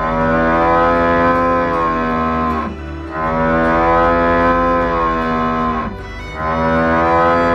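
Cow mooing three times, each call long and steady before dropping in pitch at the end, over background music.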